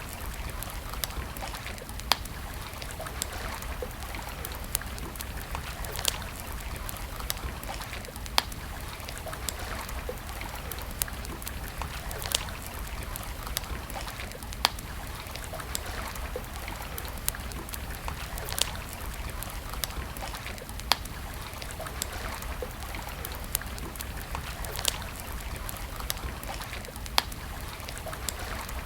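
Wood campfire crackling, with many small clicks and a sharp pop every couple of seconds, over a steady rush of flowing water.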